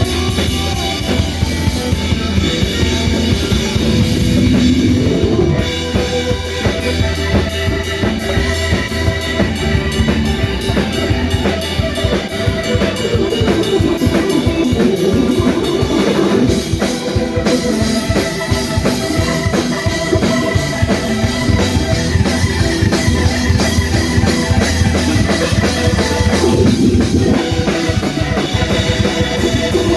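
Band playing an instrumental jam: drum kit keeping a steady beat under bass and a wandering lead guitar line, with no singing.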